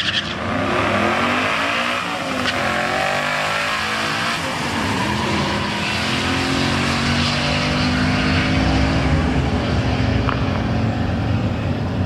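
Ford Mustang accelerating hard down a drag strip on a quarter-mile run, its engine pitch climbing and dropping with each gear change.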